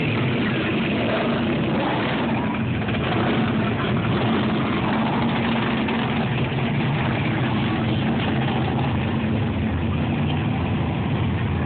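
A car engine idling steadily with a constant low hum.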